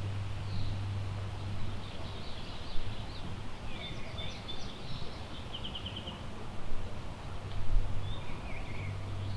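Songbirds calling in woodland: scattered short chirps and whistles, with a quick trill of about eight even notes near the middle, over a steady low rumble of wind.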